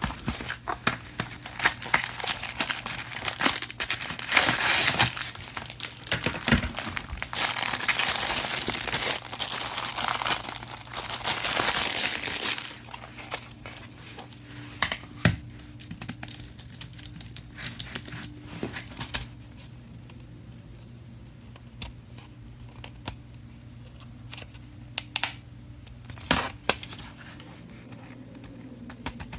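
Packaging for tablet accessories crinkling and tearing as it is opened by hand, loud and continuous for roughly the first twelve seconds. After that come scattered light taps and clicks of items being handled.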